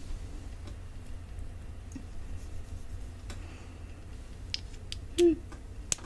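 Faint, sparse clicks and taps from handling a tiny glass perfume bottle, with one short, louder sound about five seconds in.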